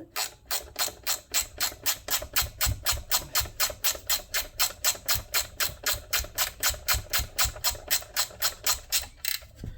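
Ratchet wrench clicking steadily, about four clicks a second, as a bolt is run in; the clicking stops near the end.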